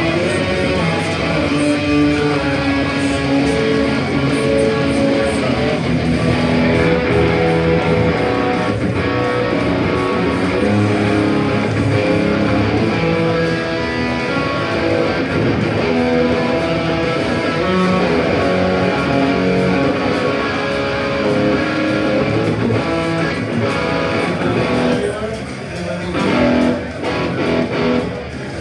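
Live punk band playing, led by electric guitars; the music drops and breaks up near the end.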